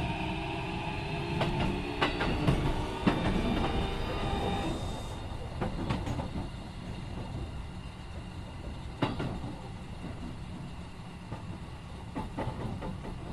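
Keikyu 1500 series electric train heard from inside the car: its Mitsubishi IGBT-VVVF inverter and traction motors whine with slowly falling pitch as the train brakes, and the whine cuts off about five seconds in. Wheels then clack over rail joints, more and more sparsely, as the train slows toward a stop.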